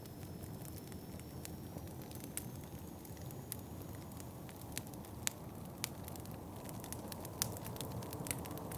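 Wood fire crackling in a fireplace, with irregular sharp pops, over a steady low rumble of wind.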